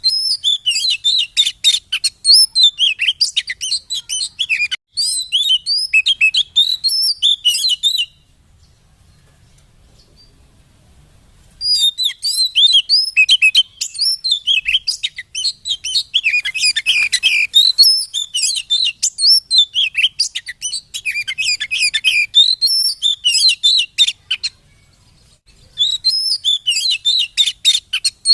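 Oriental magpie-robin (kacer) singing: a rapid, varied run of high chirps and whistles, breaking off about eight seconds in for roughly four seconds, then resuming, with another short pause near the end.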